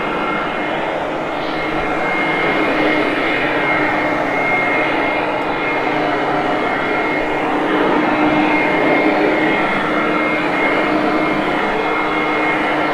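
Hoover Conquest upright vacuum running steadily on carpet: a rushing motor noise with a high whine, its belt-driven brush roll spinning.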